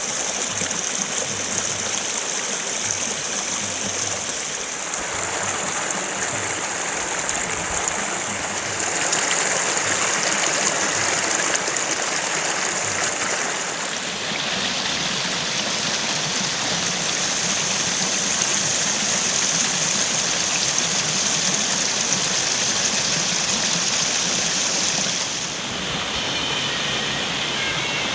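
Waterfall water rushing steadily and loudly. Its tone shifts abruptly several times.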